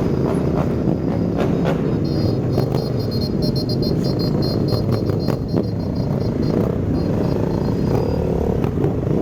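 Motorcycle engines running in a large group ride, a steady low rumble mixed with wind noise on the microphone. In the middle, a run of short, repeated high beeps sounds over it.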